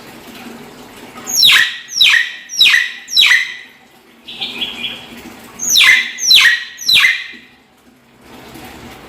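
Common hill myna giving loud, harsh calls, each one sweeping sharply down in pitch: four in quick succession, a short softer note, then three more.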